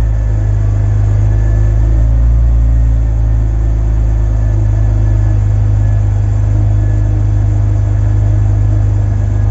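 BMW Z4 E85 2.5i's 2.5-litre straight-six idling steadily through the stock exhaust just after a cold start.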